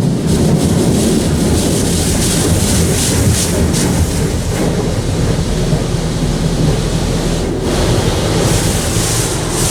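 Automatic car wash working over the car, heard from inside the cabin: a loud, steady rushing, "like you're in a hurricane".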